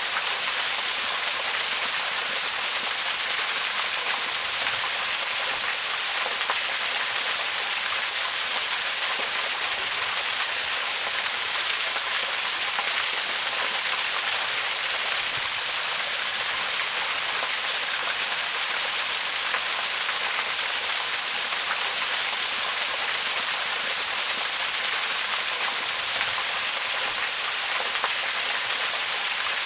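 Waterfall: a steady rush of falling water, an even hiss strongest in the high end, with no letup or change.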